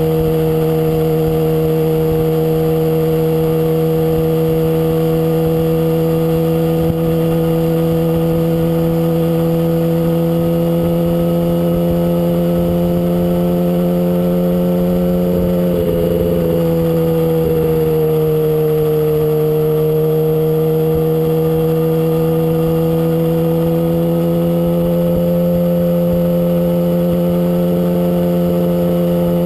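Inline-four sportbike engine running at steady high cruising revs, heard close from the bike, with wind rumbling on the microphone. About halfway through, the engine note drops for a few seconds and then climbs back up.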